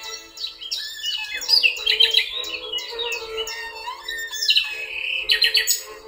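Birds singing, a dense run of quick chirps and short trills, over soft background music with a steady held note.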